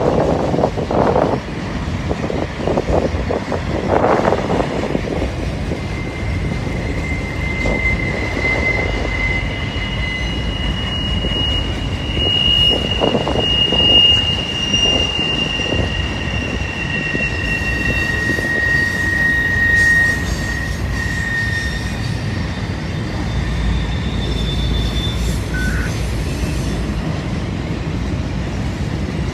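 Freight train of auto rack cars rolling past with a steady rumble from the wheels and cars. Long, high wheel squeals come and go, mostly through the middle of the passage.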